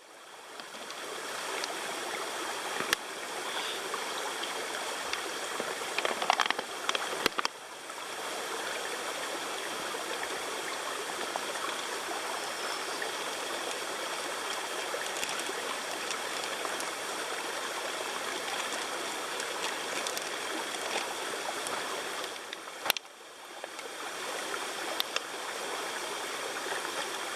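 Small creek flowing steadily over rocks, with a few light knocks near the water's edge.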